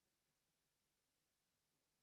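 Near silence: a faint steady hiss of the recording's background noise.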